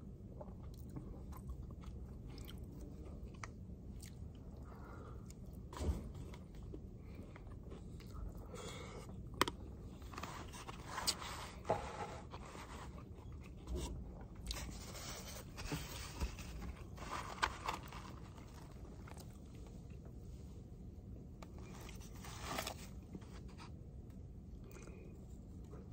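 Close-up eating sounds: chewing and biting on grilled pork chop and rice, with scattered clicks and scrapes of a plastic spoon against a plastic plate and takeout container. A steady low hum runs underneath.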